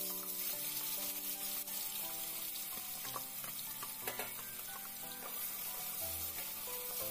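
Ground spice paste of shallots, garlic, chilies and turmeric sizzling steadily as it fries in hot oil in a stainless steel pot, stirred with a spatula, with a few light clicks of the spatula about halfway through.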